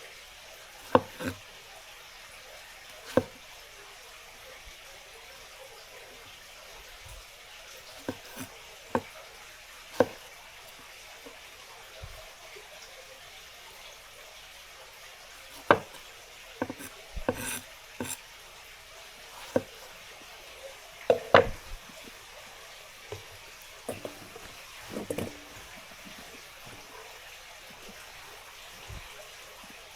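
Kitchen prep work: scattered sharp knocks and clinks of utensils, dishes or shells, irregular and sometimes in quick clusters, over a steady hiss.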